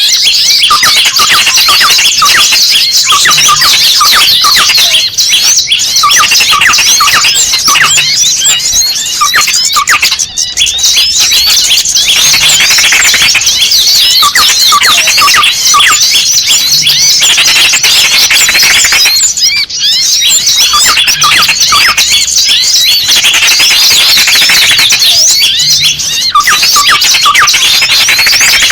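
Many small birds chirping and squeaking at once in a dense, loud, agitated chatter: a bird-lure call recording of noisy small birds, the kind played to draw small birds in, said to include the cries of a caught small bird.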